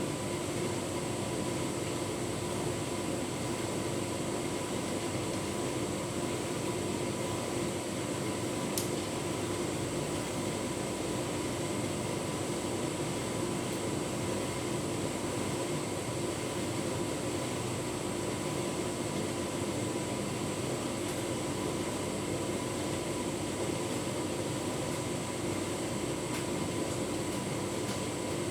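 Tumble dryer running steadily on a cottons cycle with a full load of bedding: a constant hum of motor and fan without pauses, with a faint tick about nine seconds in.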